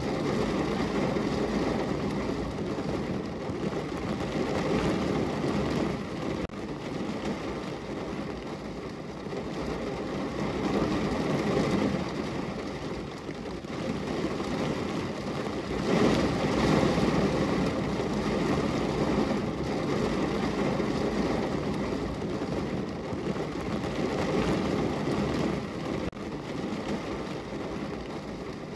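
Steady rain on a window pane, a dense, even patter that swells and eases slowly every few seconds.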